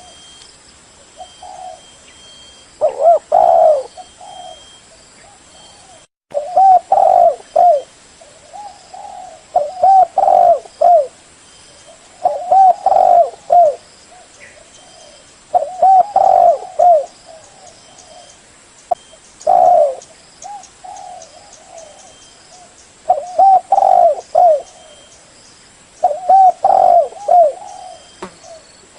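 Spotted dove cooing: a loud phrase of several short, low coos, repeated about every three seconds, nine times over.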